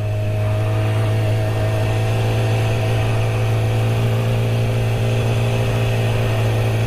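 Honda Grom's 125 cc single-cylinder engine running at a steady, unchanging speed while cruising, with wind noise.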